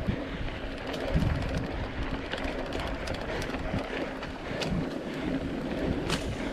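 Mountain bike rolling down a dirt trail: a steady rush of tyre and wind noise on the microphone, with scattered knocks and rattles as the bike goes over bumps.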